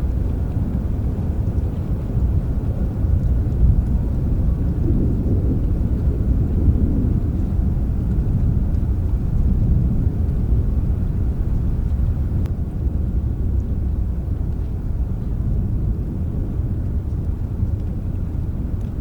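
Rain with a steady low rumble of distant thunder, and a few faint drop ticks.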